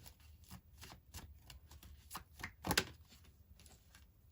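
Tarot cards being shuffled and handled: a run of soft card flicks and taps, with a louder snap just under three seconds in.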